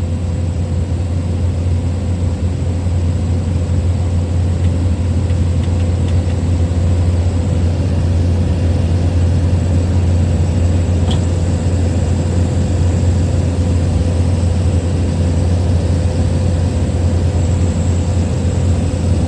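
Small plane's engine and propeller droning steadily in flight, heard from inside the cabin: an unbroken low hum with a steady higher tone above it.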